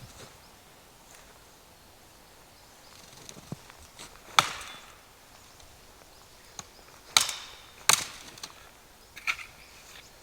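Wood being chopped: several sharp, irregularly spaced strikes, the loudest about four seconds in and two close together near the end.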